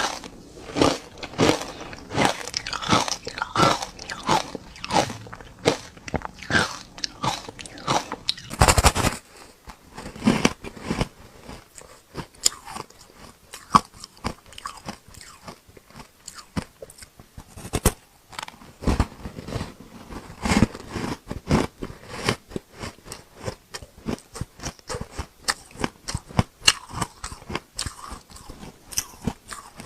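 Hard ice chunks coated in matcha powder being bitten and chewed. The crunching is dense and rapid for about the first nine seconds, with one loud crunch about nine seconds in, then turns to slower, more spaced crunches.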